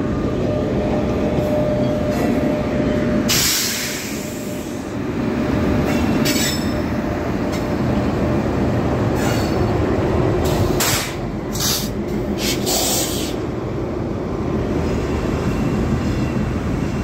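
An Indian Railways express train hauled by an electric locomotive rolling past a station platform: a continuous rumble of wheels on rails from the locomotive and coaches, with several brief sharp hissing surges through the middle.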